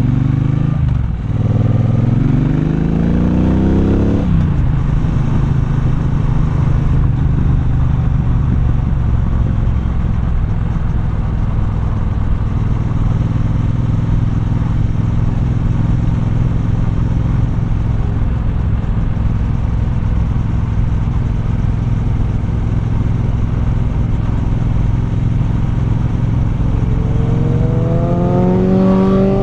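Triumph Bonneville Bobber's parallel-twin engine heard from the rider's seat. It pulls up through the revs twice in the first four seconds, with a brief drop between, as on a gear change. It then runs steadily and picks up revs again near the end.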